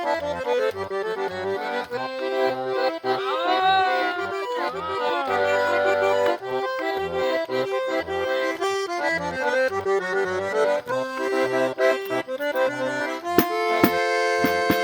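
Eight-bass diatonic button accordion (gaita de oito baixos) playing a traditional tune: a melody of held notes over a bass that pulses in a steady rhythm.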